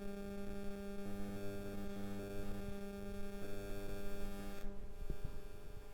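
A steady electrical hum with a buzzing edge and a few lower tones switching on and off; its upper, buzzier part drops away about three-quarters of the way through.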